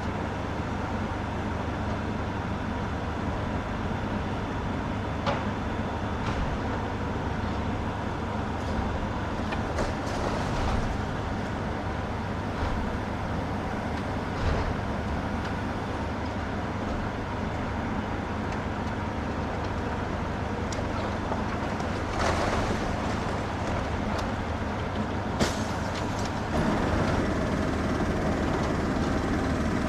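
Heavy demolition machinery running steadily, with a few sharp knocks and clatters about every few seconds, and the machinery gets a little louder near the end.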